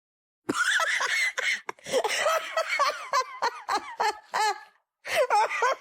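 High-pitched vocal sounds in quick rising-and-falling bursts, breaking off briefly near the end and then starting again.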